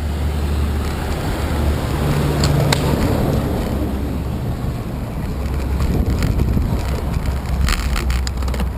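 Wind buffeting the microphone of a cyclist riding along, a steady low rumble with a few faint clicks about two and a half seconds in and again near the end.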